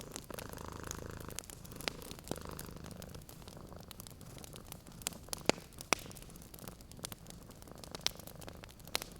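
A cat purring in a low, pulsing hum, fainter through the middle, over a crackling wood fire. The fire gives sharp pops scattered throughout, the loudest two about halfway through.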